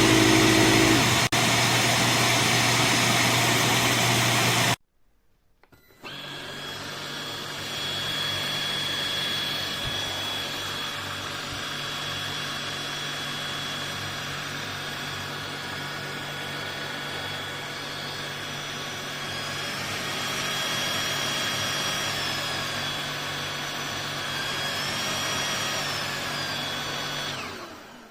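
Handheld mattress vacuum cleaner running. A loud first stretch cuts off suddenly a few seconds in, and after about a second of quiet the vacuum runs again, steadier, with a high motor whine that rises and falls in pitch twice in the second half.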